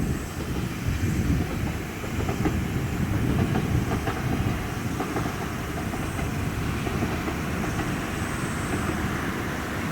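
JR Kyushu KiHa 147 two-car diesel railcar train running on the track, with a low engine rumble and wheels clicking over the rail joints.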